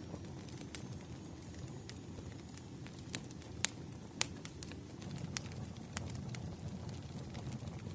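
Wood fire crackling: irregular sharp pops and snaps of burning firewood over a low, steady rumble of the flames.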